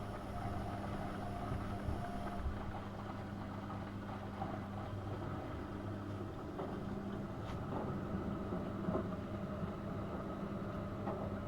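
AEG Öko-Lavamat 72520 washing machine running a boil-wash programme: a steady low motor hum with a few faint knocks now and then.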